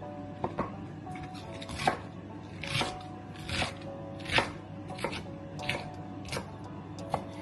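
Soft background music with a knife chopping on a cutting board, sharp knocks coming irregularly every half second to a second.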